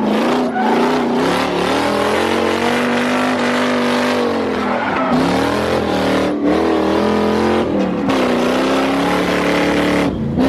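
Lexus LS400's 1UZ V8 engine revving hard in a drift, its pitch rising and falling several times as the throttle is worked, over a steady hiss of tyre squeal.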